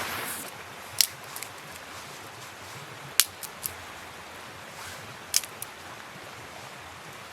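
Wood campfire crackling: a handful of sharp pops and snaps spaced a second or two apart, over a steady background hiss.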